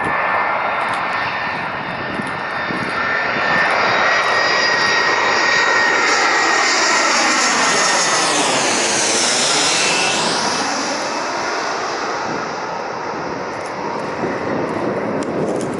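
Jet aircraft passing close by, its engines running loud. The sound builds, and about eight to ten seconds in a high whine drops sharply in pitch as the aircraft goes past, then fades.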